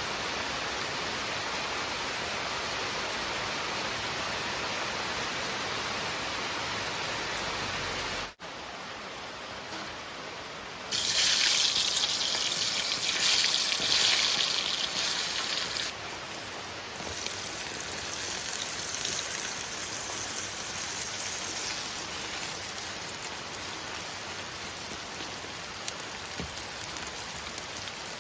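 Steady rain falling, an even hiss that changes abruptly a few times. A louder, sharper hiss stands out for about five seconds from about eleven seconds in.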